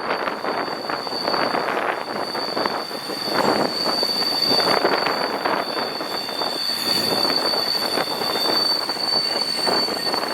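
Long intermodal freight train rolling past, its wheels giving a steady high-pitched squeal over the clatter and rumble of the cars.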